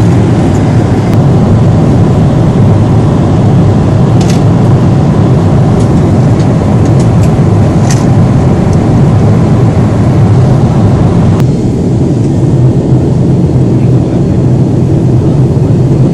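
Airliner cabin noise in flight: a loud, steady low rush of engines and airflow, with a few faint clicks. About eleven seconds in the higher hiss drops away and the low rush carries on.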